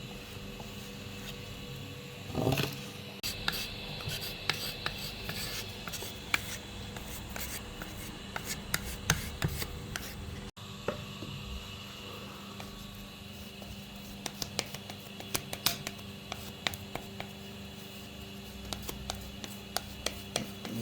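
Hand work on wood: irregular light rubbing and scraping with many small clicks and taps, and one louder scrape about two and a half seconds in, over a faint steady hum.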